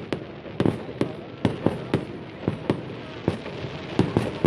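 Fireworks display: aerial shells bursting in a rapid, uneven series of sharp bangs, about two to three a second, over a continuous low rumble.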